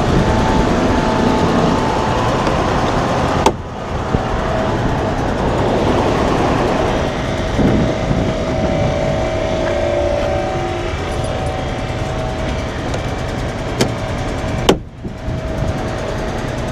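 Semi truck's diesel engine running steadily while the rig backs up. Two sharp clicks break in, a few seconds in and near the end.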